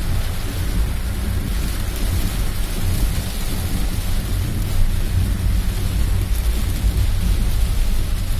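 Heavy rain drumming on a car's roof and windshield, heard from inside the cabin, over a steady low rumble.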